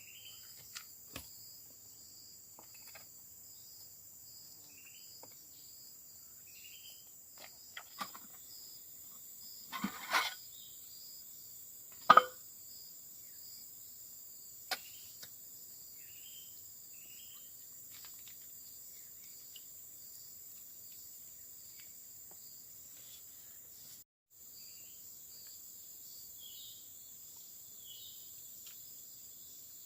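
Steady chorus of forest insects such as crickets, with short chirps now and then. Scattered clicks and two louder knocks come about a third of the way in. The sound briefly cuts out about four-fifths of the way through.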